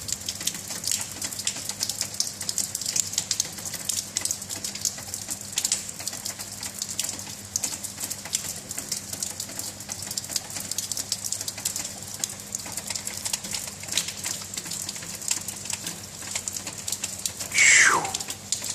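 Steady rain, a dense patter of drops. Near the end a short, loud sound slides sharply down in pitch.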